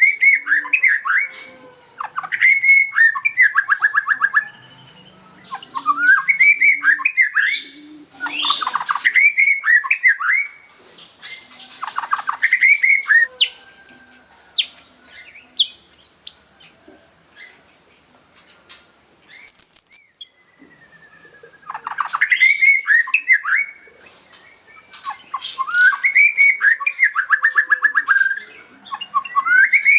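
Young white-rumped shama, just out of its spotted juvenile plumage, singing a clear, open song: bouts of whistled phrases a few seconds long, some ending in a fast even trill, with short pauses between. A steady high whine runs underneath.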